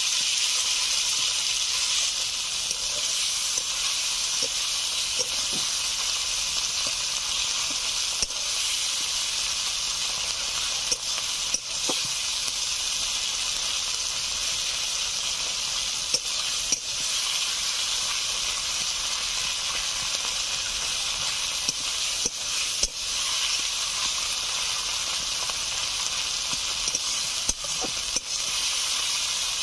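Onions, ginger-garlic paste and chopped tomato sizzling steadily in hot mustard oil in a kadai. The stirring utensil clicks against the pan a few times, mostly in pairs.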